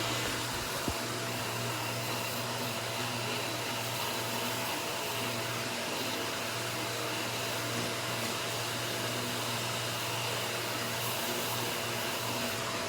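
Steady machine whir with a low hum and a faint steady whine, unchanging throughout.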